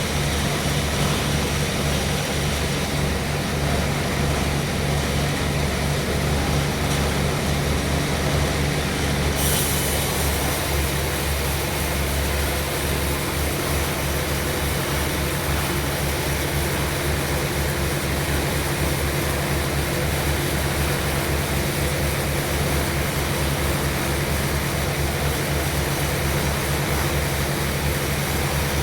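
Sawmill machinery running steadily with a rapid, pulsing low drone; about a third of the way in a brighter hiss joins and carries on.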